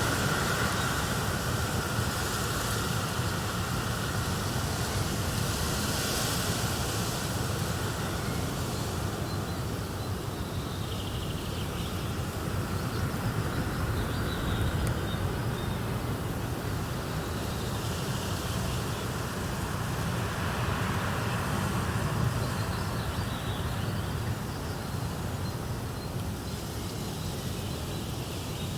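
A steady, even rushing noise with a deep rumble underneath, holding at much the same level throughout, from a nature relaxation soundscape.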